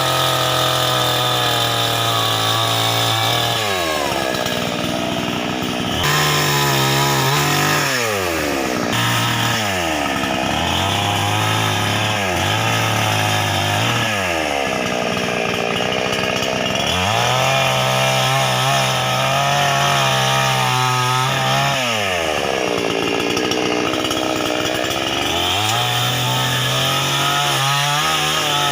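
Two-stroke brush cutter running at high revs while cutting grass. The engine note drops away and climbs back up every few seconds as the throttle is let off and squeezed again between swaths.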